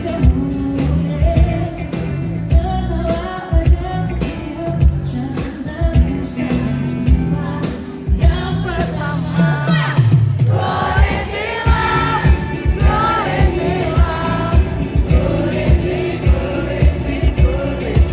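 Live pop concert music: a band with a steady drum beat and bass under singing, the sung melody coming through more clearly about ten seconds in.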